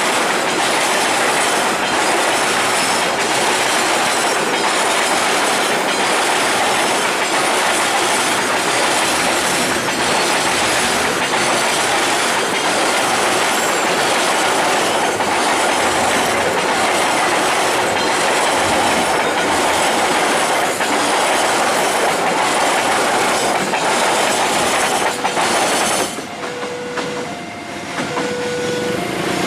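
A train passing close by a level crossing, its wheels clicking regularly over the rail joints with some wheel squeal. About 26 seconds in the train noise cuts off suddenly, leaving an electronic crossing alarm sounding two alternating notes, low then high, over and over.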